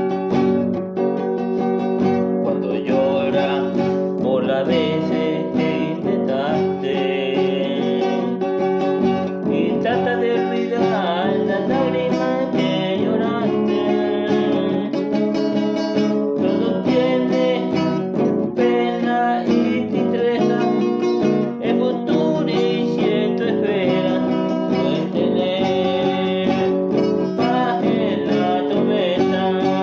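A song played on acoustic guitar in G major, with a voice singing a wavering melody over the guitar.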